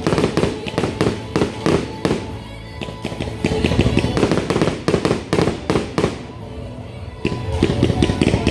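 Fireworks going off in rapid volleys of sharp pops and bangs, easing off briefly twice and picking up again.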